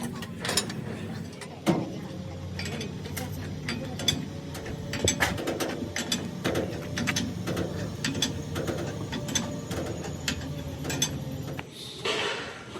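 Metal tools working on metal: irregular sharp clicks and knocks over a steady low machine hum.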